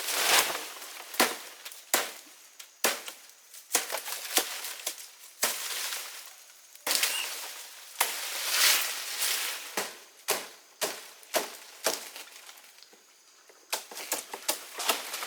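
Leaves and woody stems being handled: rustling and crackling with many sharp snaps and knocks, easing off briefly before picking up again near the end.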